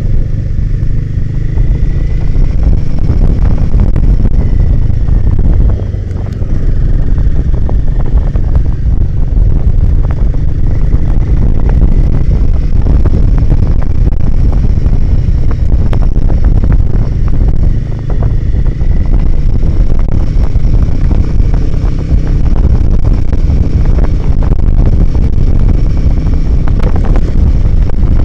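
Motorcycle engine running as the bike is ridden along a trail, under a heavy, steady rumble of wind on the microphone. The loudness dips briefly twice, about six and eighteen seconds in.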